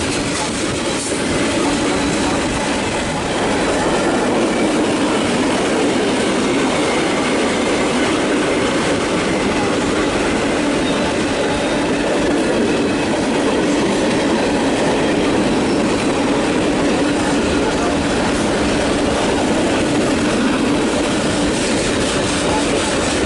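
Train rolling past on the rails: a loud, steady rumble of wheels and cars that grows slightly louder a few seconds in and keeps on without a break.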